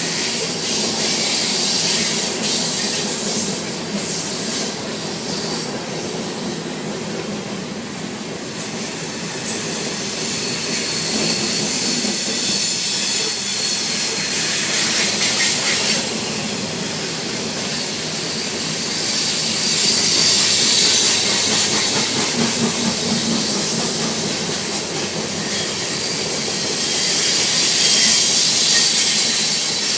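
Union Pacific loaded coal train's cars rolling past: a steady noise of steel wheels on rail, with a thin high-pitched wheel squeal for several seconds partway through.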